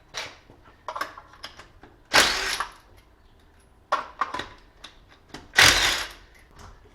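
Tools and metal parts being handled: scattered clicks and knocks, with two louder, harsher noisy bursts of about half a second each, one a couple of seconds in and one near the end.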